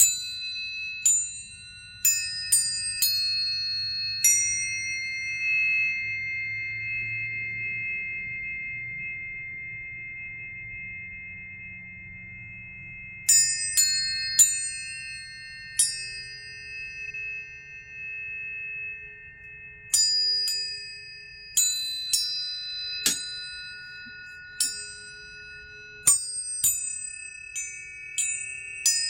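A set of planetary tuning forks, struck one after another in bursts so that each gives a bright metallic ping and then rings on as a steady pure tone. Several forks sound at once, their tones layering and slowly fading. There is a flurry of strikes at the start, a few more around the middle, and many near the end.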